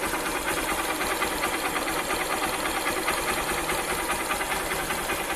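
Single-cylinder four-stroke engine of a carbureted Honda Titan 150 running steadily with its stock camshaft, air filter and exhaust.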